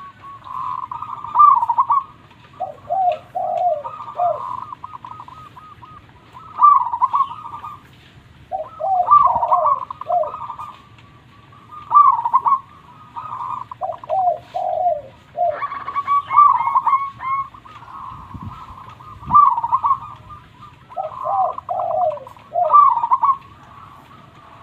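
Zebra doves (perkutut) cooing in their rapid, bubbling phrases, repeating every two to three seconds. Phrases at a lower and a higher pitch overlap at times.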